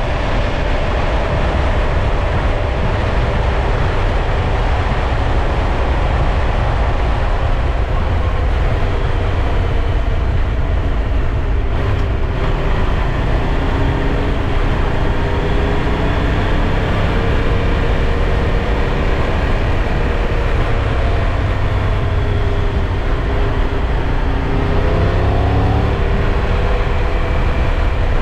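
Triumph Tiger 1200 motorcycle's three-cylinder engine under way, its note rising and falling with the throttle and climbing about 25 seconds in, over a heavy low rumble of wind.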